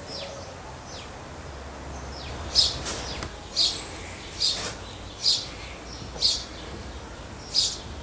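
A garden bird calling: a short, sharp, high note repeated about once a second from a couple of seconds in, with fainter chirps before it.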